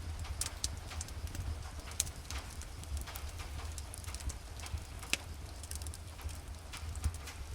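Wood fire in a fireplace crackling, with irregular snaps and pops, a few louder ones scattered through, over a steady low rumble.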